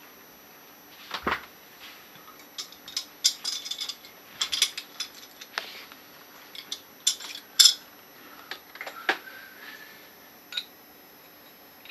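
Small metal regulator parts and tools clicking and clinking against each other and the work surface in irregular, sharp taps while a TUSA scuba regulator first stage is taken apart.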